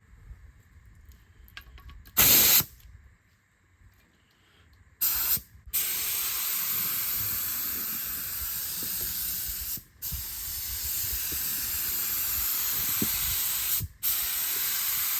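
Paint spray gun hissing as it sprays the truck: a short burst about two seconds in, another near five seconds, then long continuous passes, with the trigger let go briefly twice.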